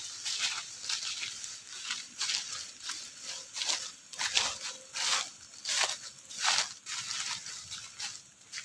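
Short rustling, tearing crackles repeating about every half second to a second.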